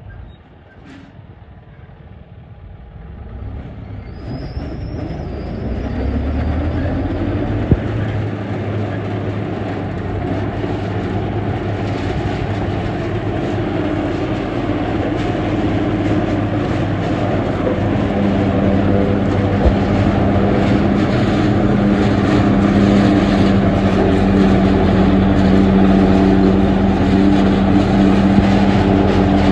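Silage harvester's engine running. It rises in pitch and grows louder over the first six seconds, then runs loud and steady with a low hum.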